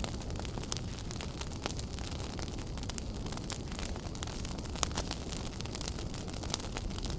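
Wood fire burning in a fireplace: a steady low rumble with frequent crackles and pops, one sharper snap a little under five seconds in.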